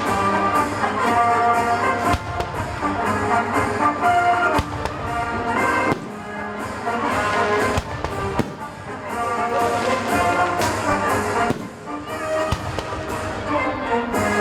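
Brass-led orchestral music playing over fireworks, with sharp bangs of bursting shells every second or two.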